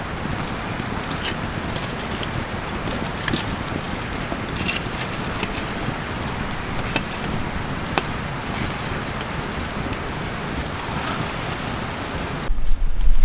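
Wood fire crackling, a steady rushing sound with irregular sharp pops and clicks. Near the end it gives way abruptly to loud, uneven low rumbling.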